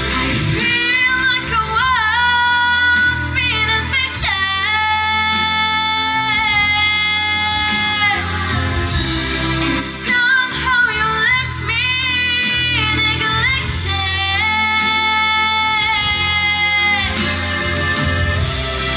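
A young female vocalist singing long held notes with vibrato and bends over a pop backing track with a steady bass line.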